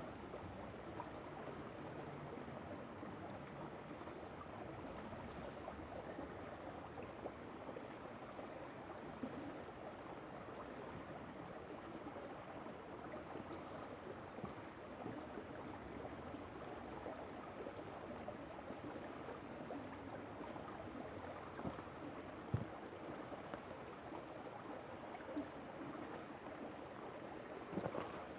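River water flowing over stones in a steady rush and babble. A single sharp click stands out about three-quarters of the way through.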